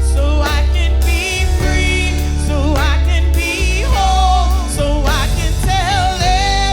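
Gospel song performed live: a lead singer holding long notes with vibrato over sustained organ or keyboard chords and a heavy bass line.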